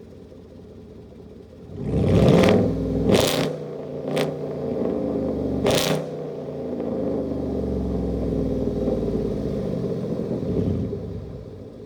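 2018 Chevy Silverado's 5.3 V8, on straight-piped true dual exhaust with no mufflers or resonators, comes up loudly about two seconds in, with several short sharp cracks over the next few seconds. It then settles into a steady deep drone that fades near the end.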